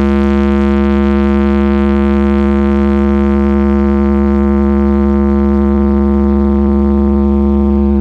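A giant carnival parade sound system (Indonesian 'sound horeg') playing one long, steady droning note over constant deep bass.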